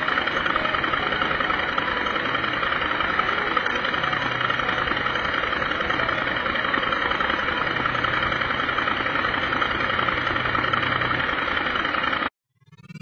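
An engine running steadily at a constant speed, with no revving; it cuts off suddenly near the end.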